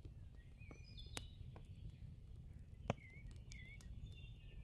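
Faint birdsong: short chirps and wavy warbling whistles, several of them, with a few sharp clicks (the loudest about three seconds in) over a low steady rumble.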